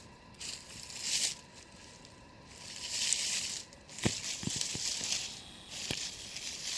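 Dry leaf litter crunching and rustling in irregular bursts, with a few sharp clicks about halfway through.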